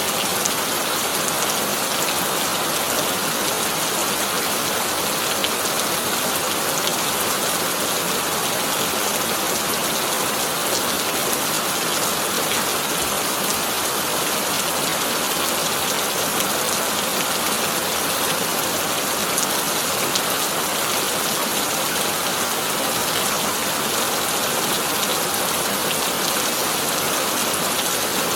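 Heavy rain drumming steadily on a tin roof, a dense even hiss sprinkled with fine drop ticks, with no thunder.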